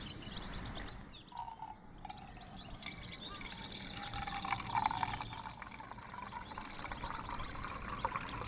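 Small birds chirping and trilling in short repeated phrases over a faint, steady rushing noise.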